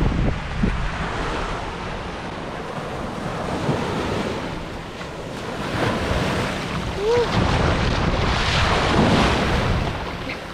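Surf washing onto a beach, with wind buffeting the microphone; the wash swells louder about six seconds in and again near the end. A short chirp sounds about seven seconds in.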